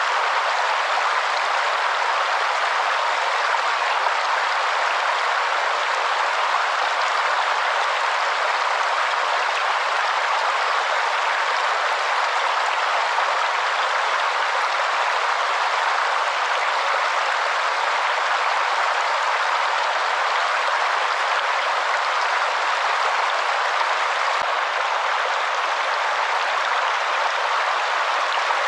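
Waterfall: a steady, even rush of falling water with no deep rumble.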